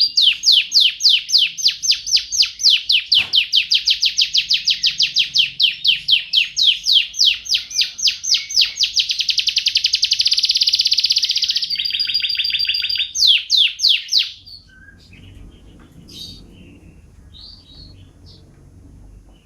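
Canary singing a long song of rapidly repeated sweeping notes. The notes speed up into a fast trill, then hold one steady note before a few last notes. The song stops about fourteen seconds in, leaving only faint scattered chirps.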